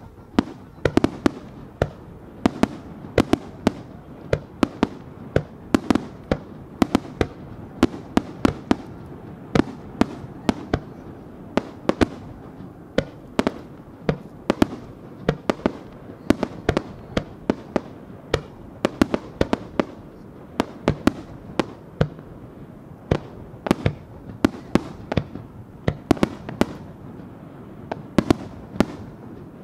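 Fireworks display: aerial shells bursting in rapid succession, sharp bangs about two a second with a continuous din between them.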